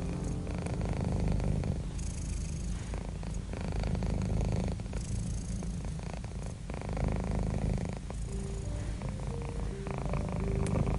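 Domestic cat purring close up: a continuous low rumble that swells and eases with each breath in and out, every two to three seconds.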